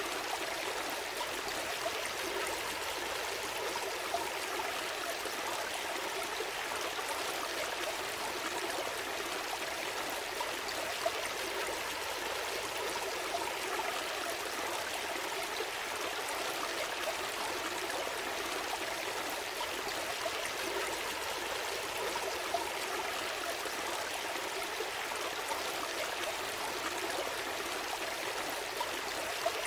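A small stream flowing steadily over stones, a constant babble with little splashes and trickles standing out here and there.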